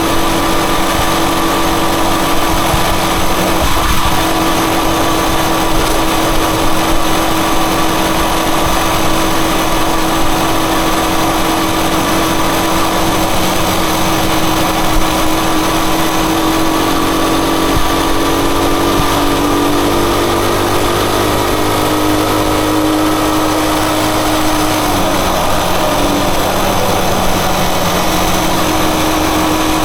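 Rusi Chariot 175 motorcycle engine running steadily under way, with a slight change in pitch partway through.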